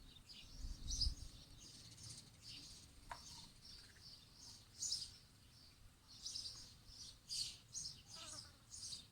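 Small songbirds chirping in short, high calls that repeat throughout, with a brief low rumble about a second in.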